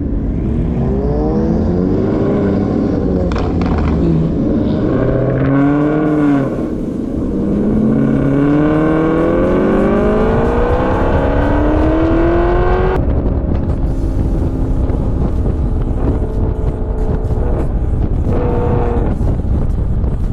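Sports car engine accelerating hard, its pitch climbing through the revs in sweeps between gear changes. The longest pull runs from about seven seconds in to about thirteen, then drops to a steadier drone.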